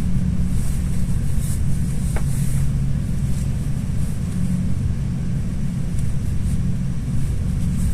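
GO Transit commuter train's diesel locomotive running steadily as the train departs, a low rumble with a constant engine hum.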